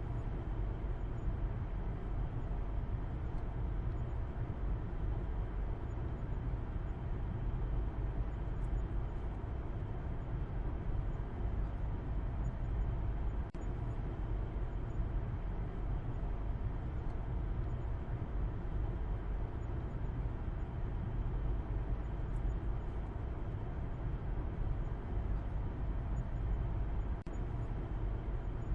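A car driving at a steady pace, giving a continuous low rumble that stays even throughout.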